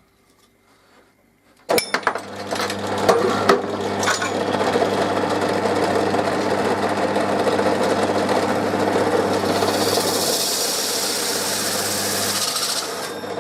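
An electric drill starts about two seconds in and runs steadily with a low motor hum, its bit cutting a circle through a thin plastic CD-spindle disc. A brighter, higher cutting hiss builds near the end and stops shortly before the motor does.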